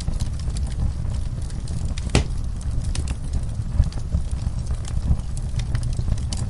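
Fireplace fire crackling, with scattered small pops and one sharp pop about two seconds in, over a low steady rumble.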